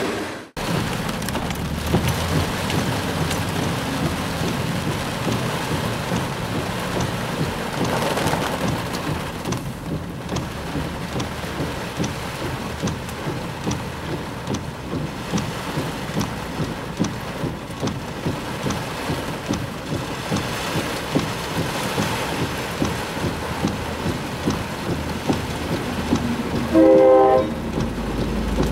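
Heavy rain pattering on a car's roof and windshield, heard from inside the car. About two seconds before the end, a train horn sounds once, loud and brief, as a Tri-Rail train reaches the crossing.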